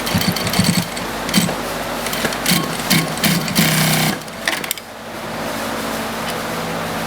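AtlasUSA AT9302-D3 walking-foot single-needle sewing machine stitching through thick heavy material in short stop-start runs, halting about four seconds in, with a brief click just after.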